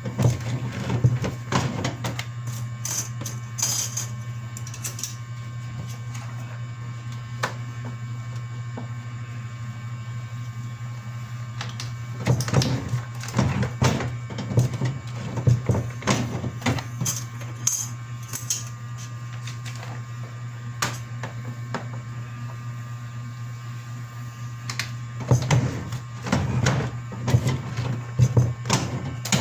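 A machine running with a steady low hum. Bursts of rapid clicking and clattering come at the start, again around the middle, and near the end.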